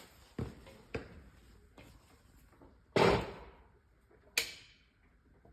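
Metal knocks and clunks as S-tronic gearbox parts are handled and fitted together. A few light knocks come first, then a heavy clunk about three seconds in that fades quickly, and a sharp clack a second and a half later.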